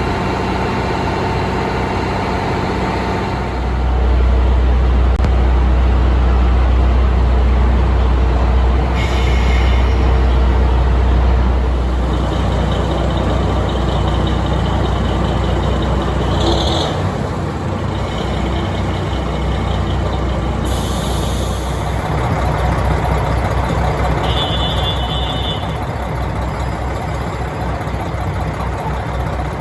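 KiHa 183 series diesel railcar engines idling at a station stop, a steady drone. A deeper, louder engine rumble sets in about four seconds in and eases off about halfway through. Several short hisses of compressed air come between.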